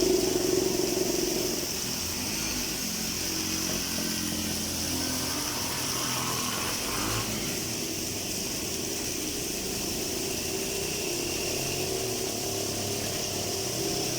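Street traffic in the rain: vehicle engines running and changing pitch, under a steady hiss. It is briefly louder in the first two seconds.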